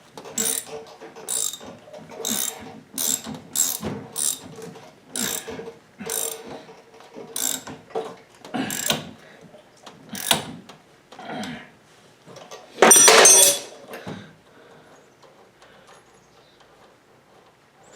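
Hand tool working metal parts of a VW front beam: a run of sharp clicks and scrapes, roughly one a second, then a louder rattling burst of about a second near the end, after which it goes quiet.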